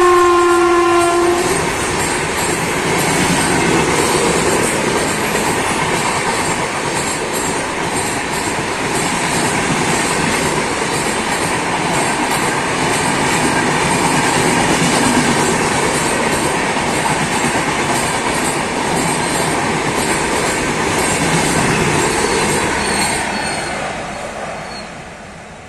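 Indian Railways passenger train passing: the locomotive horn sounds and drops slightly in pitch as it goes by, stopping about a second in. Then comes the steady rumble and clickety-clack of the coaches' wheels on the rails, fading away near the end.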